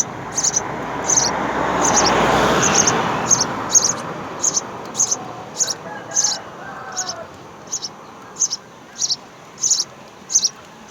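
House sparrows giving short, high chirps over and over at a steady pace, about two a second. A broad rushing noise swells and fades away in the first few seconds.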